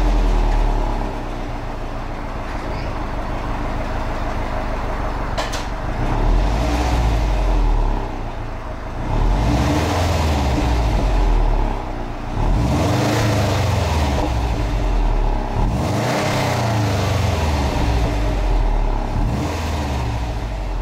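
2012 Subaru WRX's turbocharged flat-four exhaust, idling steadily and then revved several times, each rev rising and falling in pitch.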